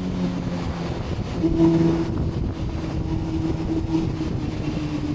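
A Honda CBR sport bike's engine runs at a steady, moderate pitch while riding, with a constant rush of noise beneath it.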